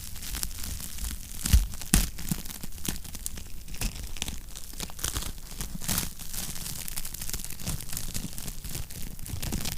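Wood fire crackling in a fireplace: a steady run of irregular small pops and snaps over a low rumble of flame, with two louder pops about one and a half and two seconds in.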